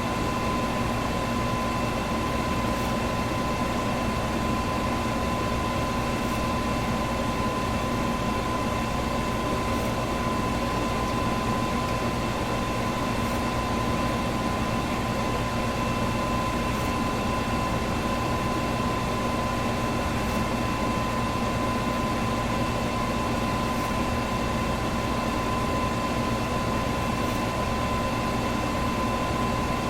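Electric fan running steadily: an even rush of moving air with a constant motor hum and a steady whine, and a faint tick about every three and a half seconds.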